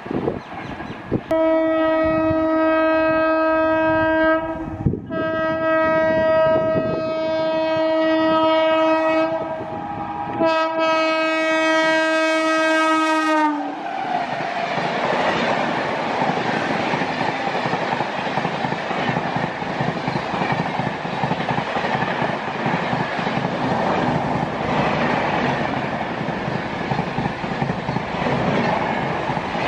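An Indian Railways electric locomotive sounds its horn in three long blasts, the pitch dropping just as it passes close by. Its express coaches then rush past with steady wheel clatter on the rails.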